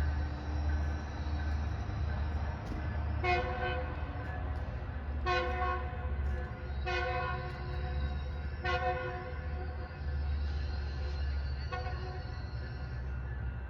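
A train's air horn sounds four short blasts, about two seconds apart, over the steady low rumble of the train.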